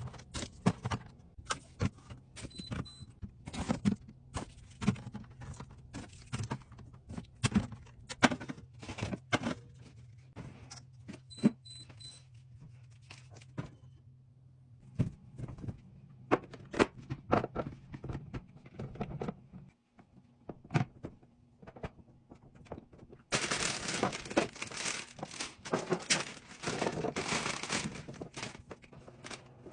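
Containers and food packaging being handled and set down in a fridge: a string of separate clicks, clacks and knocks. Short high beeps come twice, and near the end about six seconds of continuous rustling, crinkling or pouring.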